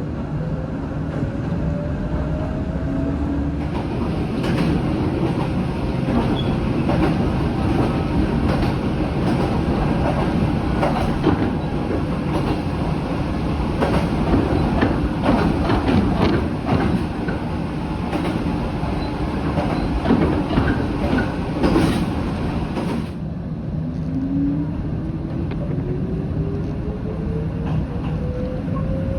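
Electric train running on the rails: wheels clattering over joints and points, with the motor whine rising in pitch as it picks up speed. A louder stretch of dense clattering starts about four seconds in and cuts off sharply about six seconds before the end, after which the rising whine returns.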